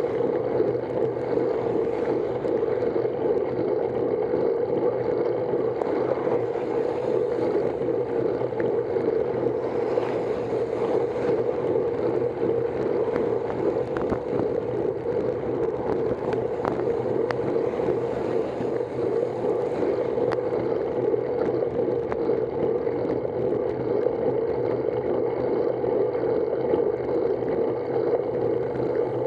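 Steady rushing noise of a bicycle ride, mostly air rushing over the camera's microphone, with faint scattered ticks.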